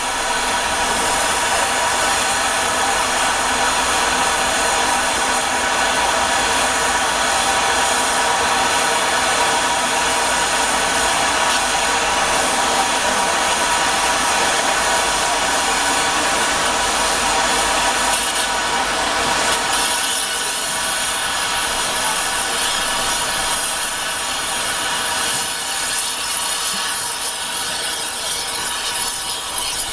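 Steam locomotive in steam, giving a steady, loud rasping hiss of steam. The high hiss shifts about twenty seconds in.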